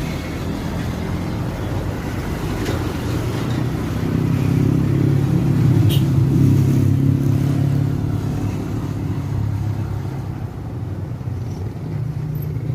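Airbus A320neo's CFM LEAP-1A jet engines running, a steady low rumble that grows louder about four seconds in and eases off again toward the end.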